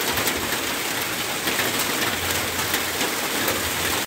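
Steady rain falling hard, a continuous hiss flecked with the ticks of individual drops hitting surfaces.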